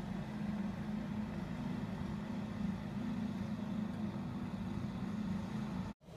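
A vehicle engine running steadily, a low hum that holds one pitch.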